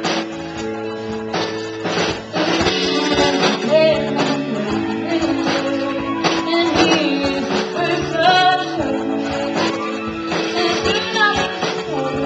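A live band plays, led by strummed acoustic guitar. A female voice sings over it from about two seconds in.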